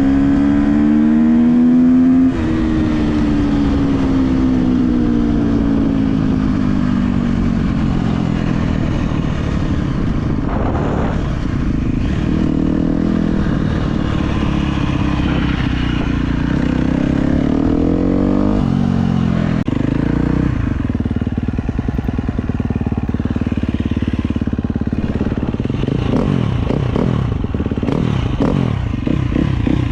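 KTM 250 SX-F dirt bike's single-cylinder four-stroke engine running under changing throttle, its pitch rising and falling. The pitch drops sharply about two seconds in and again about twenty seconds in, with a run of quick revs up and down near the end.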